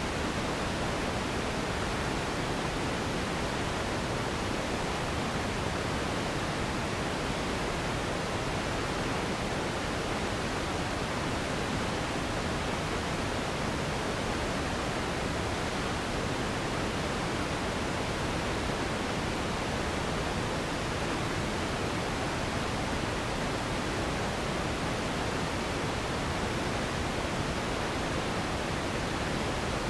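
Steady, unchanging noise with no rhythm, pitch or events, spread evenly across low and high pitches: a generated sleep-noise track.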